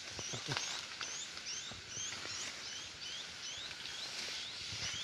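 A high, short chirping call repeating evenly about twice a second, with faint clicks and rustles beneath.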